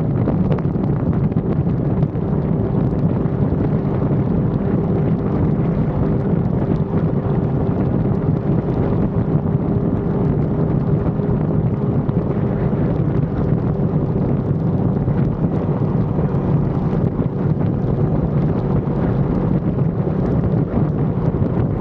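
Wind rushing over an action-camera microphone on a sport bike riding at a steady speed, with the engine running at steady revs underneath. The sound is loud and unbroken, with no gear changes or bursts of throttle.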